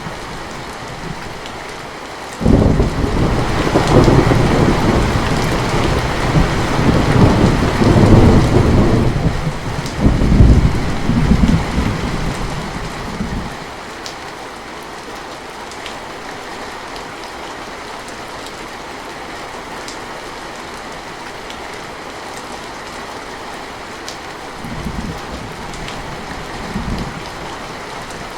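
Steady rain with thunder: a loud rumble breaks in suddenly about two seconds in and rolls on in swells for about ten seconds before dying away, then two short low rumbles come near the end.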